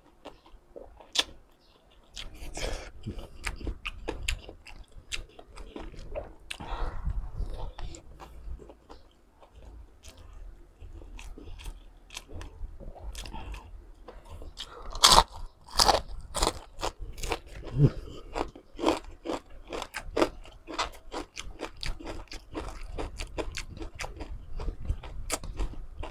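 Close-miked biting and chewing of crunchy food, green mango and crisp fried pork skin, heard as many sharp crunches. A run of loud crunches comes about halfway through.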